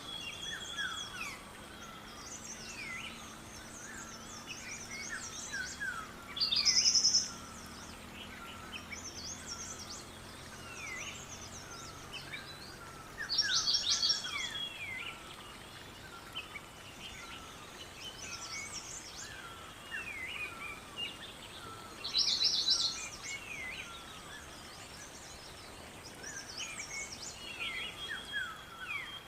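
Several songbirds chirping and whistling continuously, with one louder, rapid trill that repeats about every seven seconds, over a faint steady outdoor hiss.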